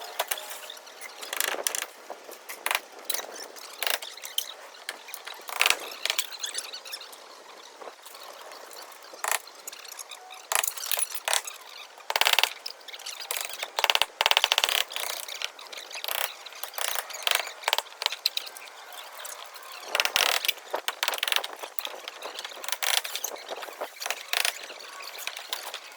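Hand-tool and metal-hardware work: an irregular run of clicks, clanks and ratcheting, with denser stretches of rapid clicking about halfway through and again about three-quarters of the way in.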